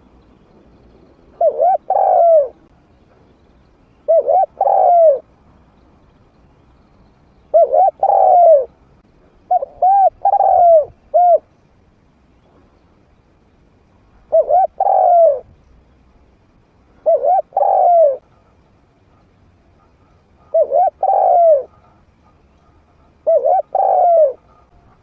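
Spotted dove cooing in a medium-pitched voice: eight short phrases, each of two to four quick notes, repeated about every two to three seconds.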